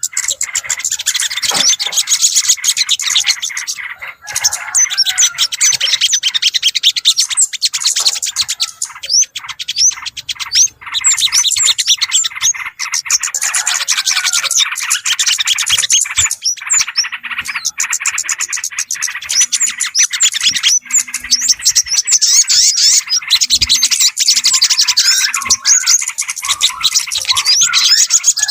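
Dense, unbroken chorus of many small birds chirping and twittering fast, overlapping calls: a bird-lure recording used to draw in yellow-vented bulbuls and other small birds.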